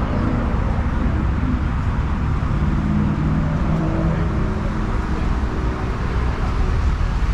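Steady low rumble of car engines idling, with the general background noise of cars around.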